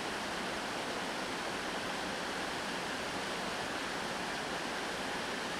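River cascade pouring over rocks: a steady, even rush of water.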